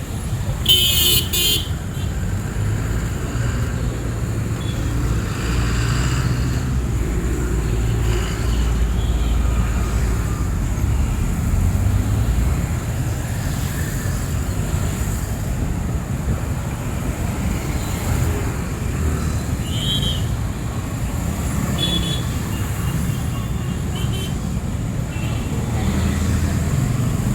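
City street traffic: vehicle engines running steadily, with a short, loud horn toot about a second in and a few faint, brief higher sounds later.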